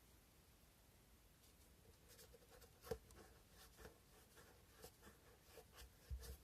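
Faint, irregular scratching of sandpaper rubbed by hand over a cow-bone fish hook carving, in short strokes, with a sharper tick about three seconds in and a soft bump near the end.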